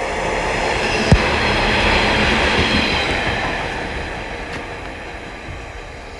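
Class 143 Pacer diesel railbus running past, its noise building to a peak about two seconds in and then fading away, with one sharp knock about a second in.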